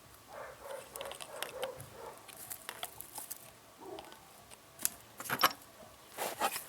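Scattered small metallic clicks and clinks of handling a hydraulic bottle jack and its parts while topping up its oil, with a few sharper knocks about five seconds in.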